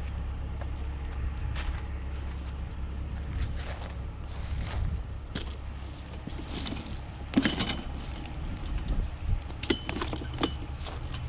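Scattered clanks and knocks of metal scrap being handled and taken apart by hand, two of them sharper with a brief metallic ring, over a steady low hum.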